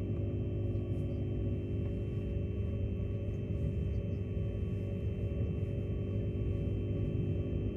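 Queensland Rail Tilt Train running at speed, heard from inside a carriage: a steady low rumble from the running gear with several steady humming tones over it.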